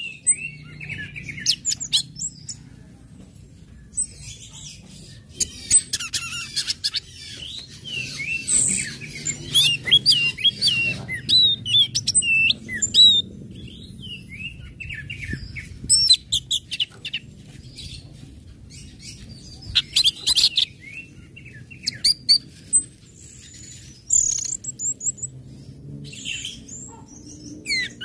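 Orange-headed thrush singing in bursts of quick high chirps, twitters and short whistled slurs, with pauses of a few seconds between phrases. The song is the chattering 'ngecit-ngecis' style that keepers play to bring other birds into song. A low steady hum runs underneath.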